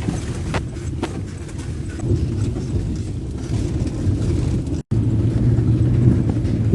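Steady low rumble of a moving vehicle's engine and road noise, with a few sharp clicks about half a second and a second in. The sound cuts out for an instant just before 5 seconds, then resumes with a stronger low hum.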